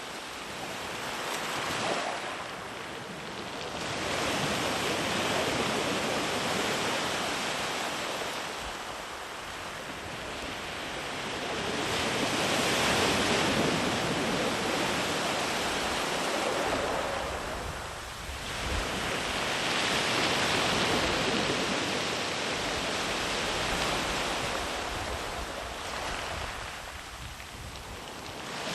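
Sea waves rolling in and washing up a beach, a continuous surf rush that swells and ebbs every several seconds, with loud peaks about 5, 13 and 20 seconds in.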